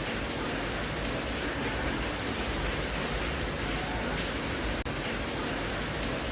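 Steady rain sound, an even hiss with no separate drops standing out, with a very brief break nearly five seconds in.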